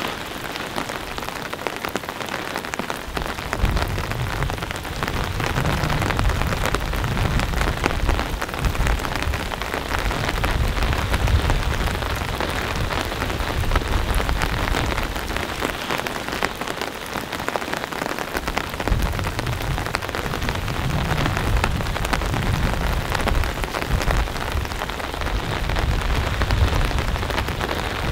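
Heavy rain pouring down, a dense patter of drops on the ground and tent fabric, with a low rumble that swells and fades several times.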